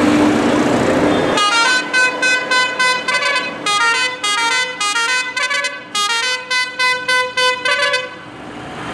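About a second of vehicle engine noise with a steady low hum, then a quick tune of short, stepping, horn-like notes.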